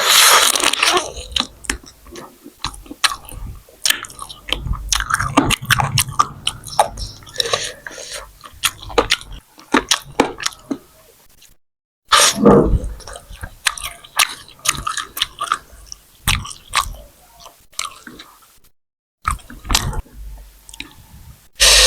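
A person chewing and biting food close to the microphone, with dense, irregular wet mouth clicks and smacks. The sound cuts out abruptly twice for a moment.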